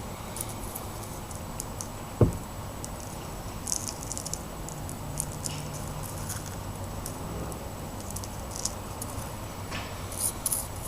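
Faint handling noises: scattered light clicks and rustles, with one sharp knock about two seconds in.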